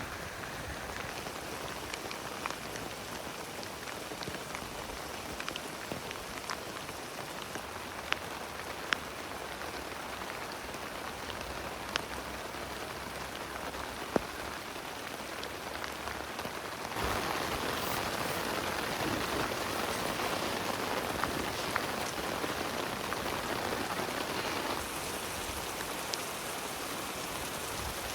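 Steady rain falling, with single heavier drops ticking sharply now and then. For several seconds past the middle the rain comes down harder and louder, then eases back.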